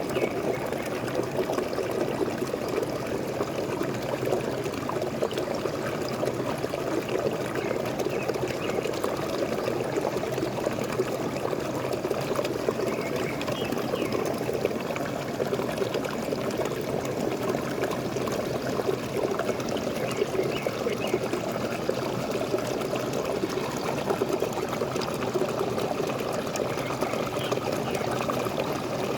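Small waterfall splashing and trickling steadily, an unbroken rush of falling water.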